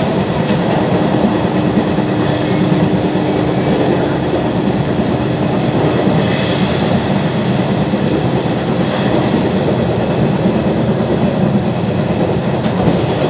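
Nishitetsu 2000 series electric train running at speed, heard from inside the passenger car: steady running noise of wheels on the rails. A steady hum sits over it through roughly the first half.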